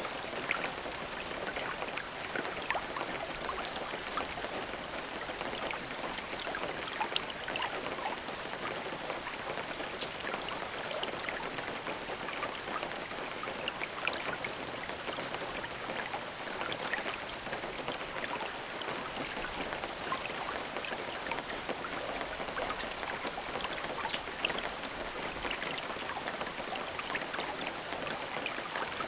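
Steady rain falling, with many small drops ticking and pattering on a surface.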